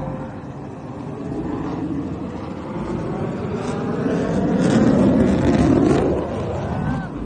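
A loud rushing rumble that builds to a peak over several seconds and then cuts off abruptly.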